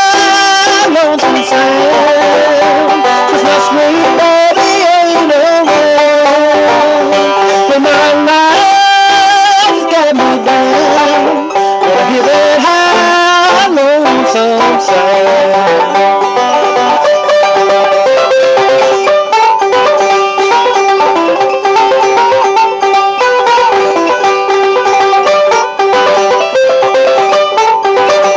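Bluegrass instrumental break: rapid banjo picking over guitar, with no singing.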